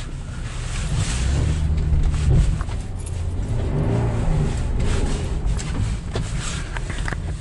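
2005 Jeep Cherokee KJ's 3.7-litre V6 engine heard from inside the cabin while driving slowly on a snowy dirt track. The engine note rises and falls a few times as the throttle is worked.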